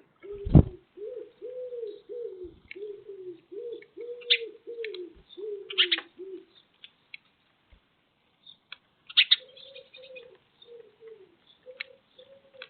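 Pigeon cooing in a long run of short rising-and-falling notes, about three a second, breaking off for a few seconds midway and then starting again. A loud thump comes about half a second in, and brief high chirps are scattered through.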